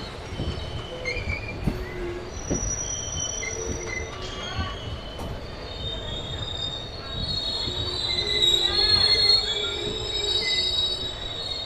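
Passenger train slowing into a terminus station, its wheels squealing at several high pitches over a low rumble and occasional knocks. The squealing is loudest about eight to ten seconds in.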